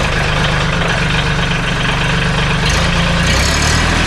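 Mahindra 1626 tractor's three-cylinder diesel engine idling moments after a glow-plug start. It runs steadily, with a change in its note about three seconds in.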